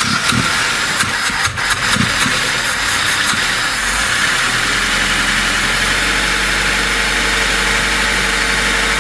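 Freshly overhauled VAZ 2102 inline-four engine running just after being started, fitted with a new camshaft and rocker arms. It runs unevenly for the first couple of seconds, then settles about four seconds in into a steady idle.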